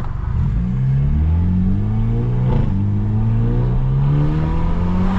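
Straight-piped BMW F30 sedan's engine pulling hard under full throttle, its note climbing steadily in pitch. About halfway through there is a short sharp crack as it shifts up, and the rise carries on.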